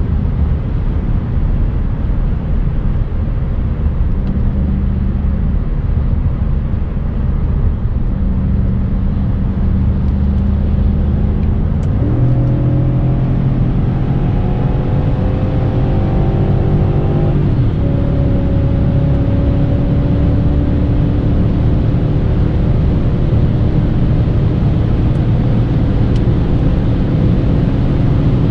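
BMW E39 540i's 4.4-litre V8 at speed under heavy road and wind noise. About twelve seconds in the engine note jumps up a gear, climbs steadily under acceleration for about five seconds, drops at an upshift, then holds a steady, higher cruising note.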